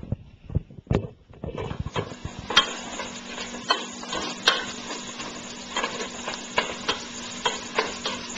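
Chopped garlic and onion sizzling in hot cooking oil in a pot, the sizzling starting about two seconds in. A spatula stirring knocks and scrapes against the pot every second or so, after a few sharper knocks at the start.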